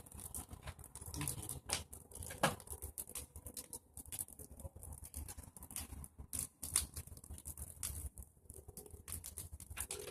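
Pile of pruned tree branches burning, with irregular sharp crackles and snaps over a low rumble.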